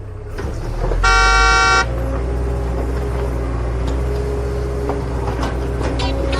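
A horn toots once, loud, for under a second about a second in, over a steady low motor hum that runs on after it.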